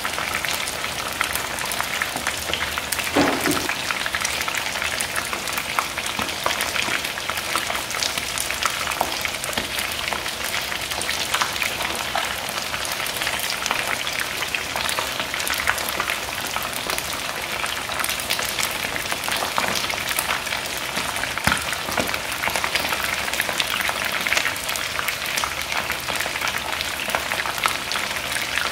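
Batter-coated chicken wings shallow-frying in hot oil in a pan: steady sizzling with many small crackles and pops.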